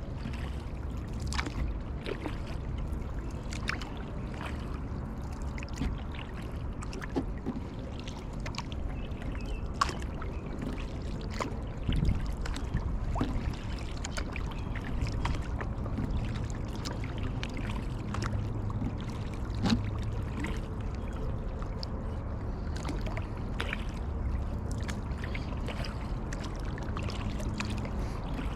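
Kayak paddle strokes in the water: splashing and dripping over a steady low rumble. A few louder knocks come about twelve and twenty seconds in.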